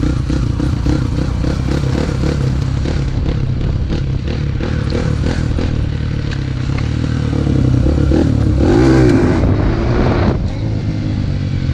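Dirt bike engine running steadily, swelling louder with a bending pitch for a moment about eight to ten seconds in.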